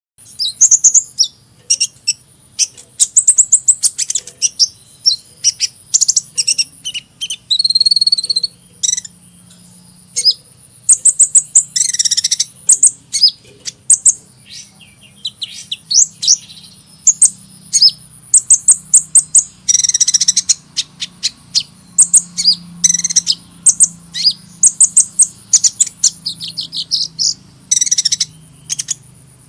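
Sunbird song (the bird sold in Indonesia as 'kolibri'): rapid bursts of sharp, high chirps and twittering trills, one after another.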